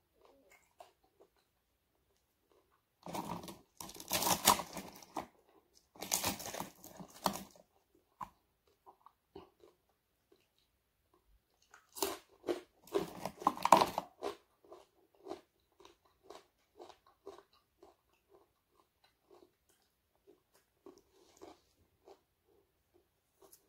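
Close-miked eating of crispy fried dried fish: loud crunching bites in bursts about three and six seconds in and again around twelve to fourteen seconds in, with quieter chewing and small mouth clicks between and after.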